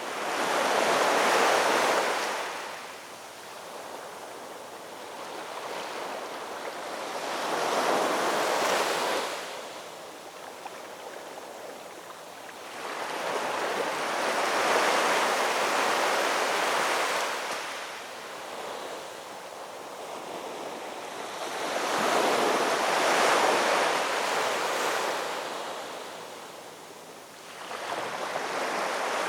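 Ocean surf: waves wash in and recede, each surge swelling to a loud rush and fading about every seven or eight seconds, with a new wave building near the end.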